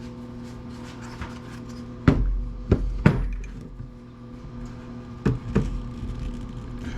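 Sharp knocks and clanks of the planer's parts being handled and worked loose: a cluster of three about two to three seconds in, then two more after five seconds, over a steady low hum.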